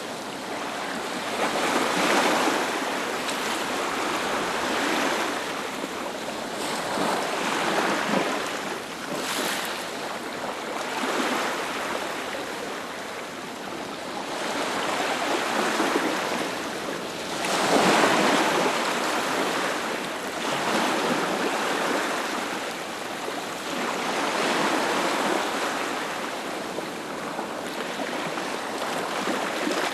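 Sea waves breaking on a beach, a steady rush of surf that swells and eases every few seconds, one surge near the middle louder than the rest.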